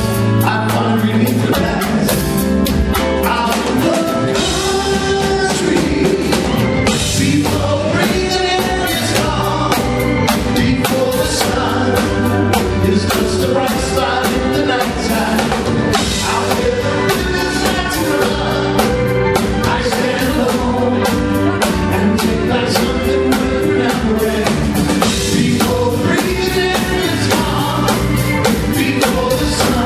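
Live band playing a pop-rock song with a male lead vocal, backing vocals and a drum kit keeping the beat.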